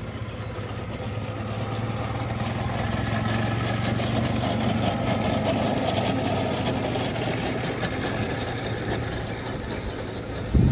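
Miniature railway train running, its engine giving a steady low hum that grows louder over the first few seconds and eases a little later. A short low thump comes just before the end.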